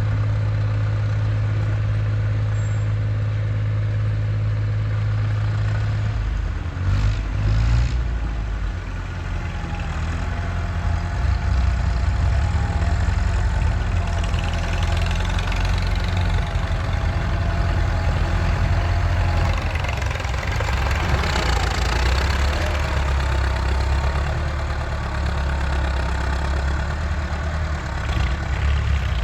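Massey Ferguson 385 tractor's four-cylinder diesel engine running steadily. About seven seconds in there is a brief clatter, and the engine then runs louder with more rattle for the rest of the time.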